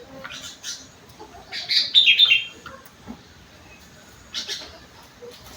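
Sooty-headed bulbul (kutilang) singing in short bursts of quick chirping notes, the loudest phrase about two seconds in and a brief one near the end.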